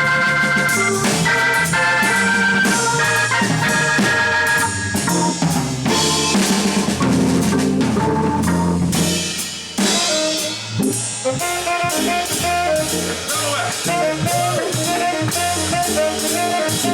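Jazz trio playing live: tenor saxophone and organ lines over a busy drum kit, with the drums prominent.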